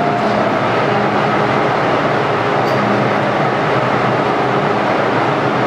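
MTR Q-Train metro train running: a steady, loud rumble of wheels and rail with faint steady motor hums over it.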